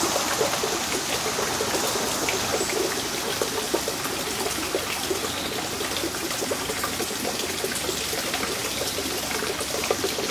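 Steady trickle of running water, with many small splashes and ticks throughout.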